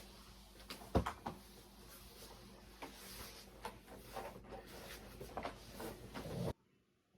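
Scattered light knocks and clicks of objects being handled, over a steady low room hum, with one louder knock about a second in. The sound cuts off abruptly near the end.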